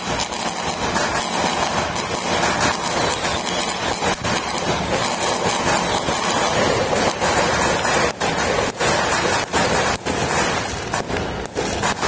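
New Year fireworks and firecrackers going off across a city: a continuous dense din of crackling with frequent sharp bangs, the separate cracks standing out more in the second half.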